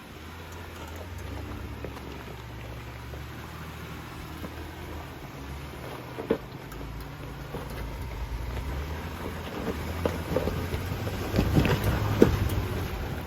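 Jeep engine running at low revs as it crawls an off-road trail, with rain pattering. The rumble slowly grows louder, and there are sharp knocks about six seconds in and several more near the end.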